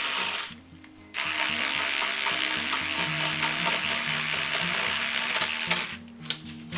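Cordless reciprocating saw (Makita 18V) with a bamboo-cutting blade sawing through bamboo. It stops briefly about half a second in, runs again, and stops near the end, where there is a sharp snap. Background music plays underneath.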